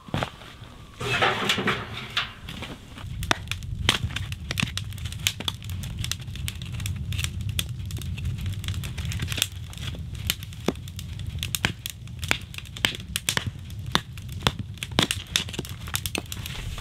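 Wood cracking and splintering as a log is split into kindling by hand: an irregular run of sharp cracks and snaps, with a louder crunch about a second in, over a steady low rumble.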